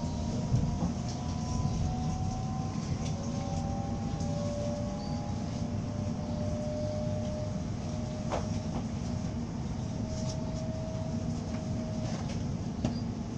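A passenger train running, heard from inside the carriage: a steady low rumble, with faint drawn-out whining tones that drift slowly in pitch and a few sharp clicks.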